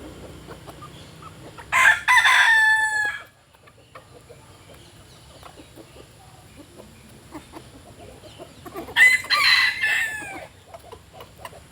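A rooster crowing twice, each crow about a second and a half long and ending in a drawn-out falling note. Between the crows there is faint clucking and scattered soft ticks.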